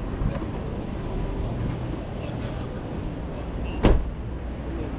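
A vehicle's low steady rumble, with one car door slamming shut about four seconds in.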